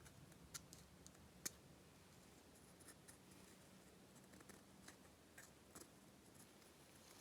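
Near silence with scattered faint, sharp clicks and ticks over a low hum, the two clearest about half a second and a second and a half in.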